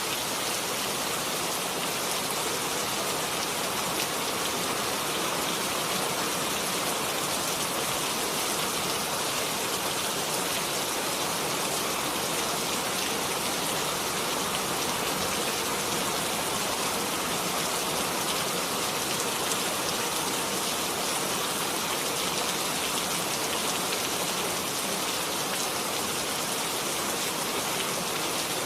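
Steady rain falling, a dense even hiss with fine patter of drops hitting a surface.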